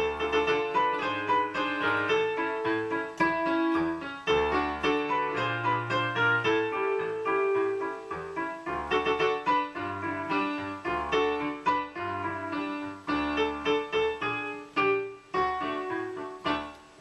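Instrumental keyboard backing track: piano-like chords and a quick run of struck notes over a bass line, fading away at the very end.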